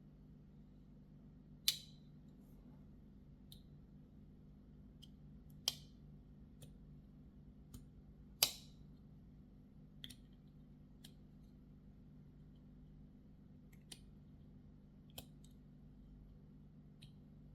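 Mini Bowie flipper knife being handled and worked open and shut: three loud, sharp metallic snaps, the loudest about 8.5 s in with a short ring after it, and several fainter clicks scattered between them.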